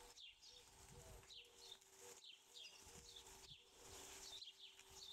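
Faint bird chirping: many short, high chirps falling in pitch, several a second, over a steady low hum.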